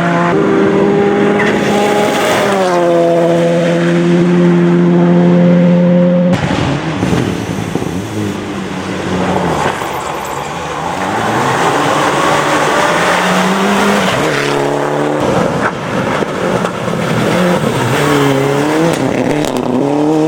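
Rally car engines at full throttle. First, one engine revs up and holds a high, steady pitch. About six seconds in, the sound cuts sharply to cars whose engine pitch rises and falls repeatedly as they change gear and lift off.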